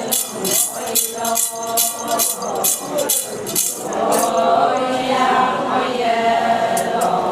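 Group of singers chanting a Ponung dance song over a steady jingling beat of about two and a half strikes a second. The beat stops about four seconds in and the voices hold long sung notes together.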